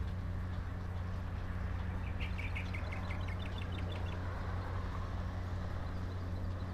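A steady low hum runs throughout. About two seconds in, a bird gives a quick run of short, high chirps lasting about two seconds.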